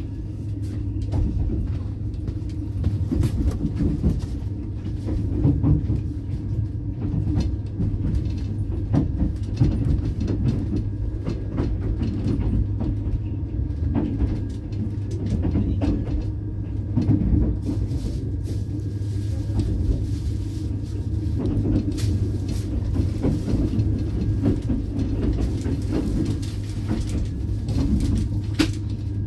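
Running noise heard inside the passenger coach of a moving train: a steady low rumble, with the wheels clicking over rail joints again and again.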